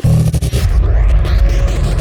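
Edited video transition: a deep bass boom with a rising whoosh sweeping upward, set in music.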